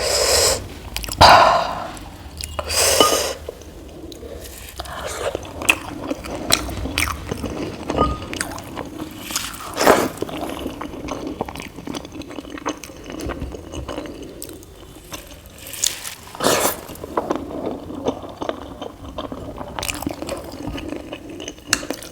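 Close-miked chewing and mouth sounds of someone eating idli with sambar, with many small irregular clicks and a few louder bursts in the first three seconds.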